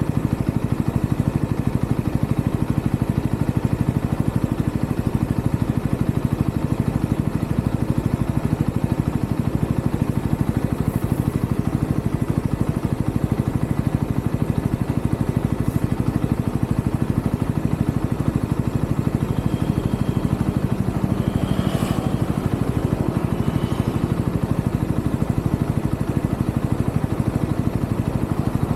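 UM Renegade Commando 125 motorcycle's single-cylinder 125 cc engine running steadily, with an even, rapid pulse and no marked revving.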